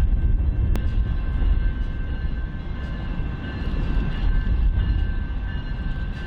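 Norfolk Southern train led by an SD60E diesel locomotive approaching a grade crossing: a heavy, steady low rumble, with a single sharp click about a second in.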